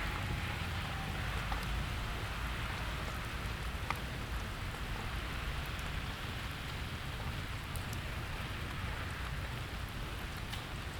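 Steady rain falling, an even hiss with a few single drops ticking, over a low rumble.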